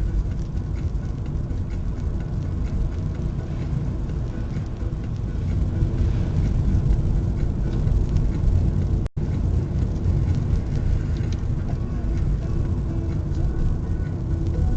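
Steady road and engine rumble of a moving car heard from inside, with a brief sudden dropout about nine seconds in.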